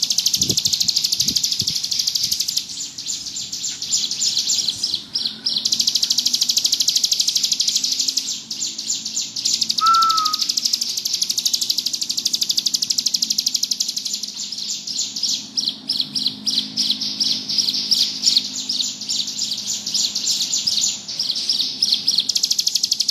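Ciblek gunung, a prinia, singing a long, very rapid high-pitched trill (the churring "ngebrem" song), running on with only a few short breaks. One short, lower clear whistle comes about ten seconds in.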